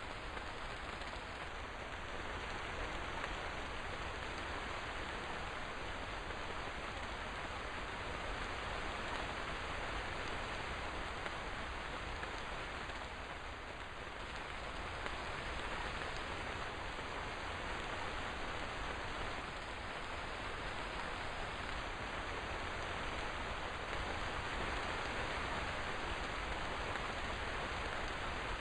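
Steady rain falling, a continuous even hiss with slight swells in level.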